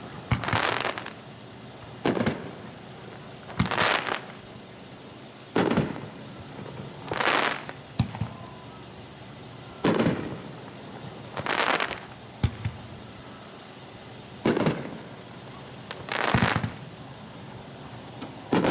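A seven-shot 500-gram firework cake with 3-inch tubes firing single shells about every four seconds. Each shot is a sharp launch thump, followed nearly two seconds later by the shell breaking in a crackling burst.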